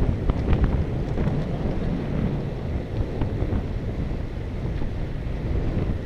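Wind buffeting the microphone of a camera on a moving bicycle: a steady low rumble, with a few light clicks in the first second.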